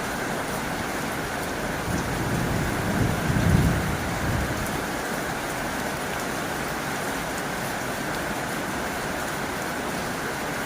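Heavy rain drumming steadily on a tin roof. A low rumble swells and fades about two to four seconds in.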